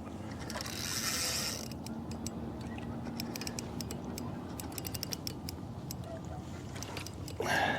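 Fishing reel clicking in irregular runs of small mechanical ticks as a hooked bass is played and reeled in. A brief rush of noise comes about a second in and another short burst near the end.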